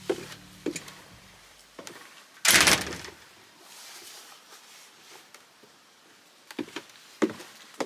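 A door being handled and shut: a few latch clicks, one loud thud about two and a half seconds in, then more clicks and knocks near the end.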